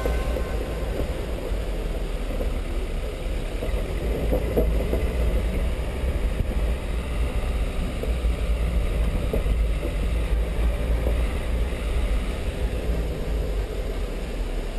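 Dacia Duster 1.5 dCi diesel 4x4 on the move: a steady low rumble of engine and road noise.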